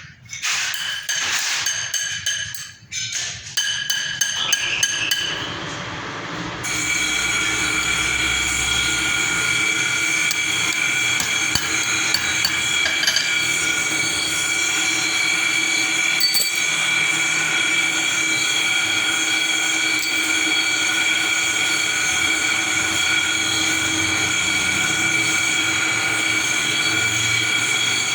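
Manual metal lathe working a stainless steel plate: irregular metallic clinks and knocks for the first few seconds, then a steady high ringing whine with several tones that runs on unchanged.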